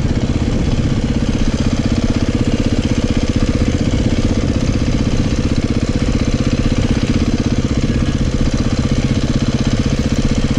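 Beta 500 dirt bike's single-cylinder four-stroke engine running steadily, with an even pulsing beat and no big revs.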